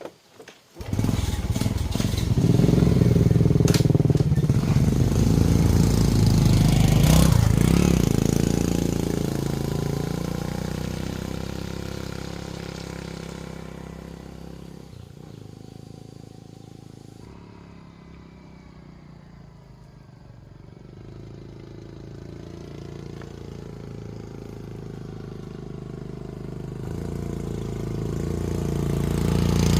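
Motorcycle engine starting about a second in, then running as the bike pulls away and fades, growing louder again near the end.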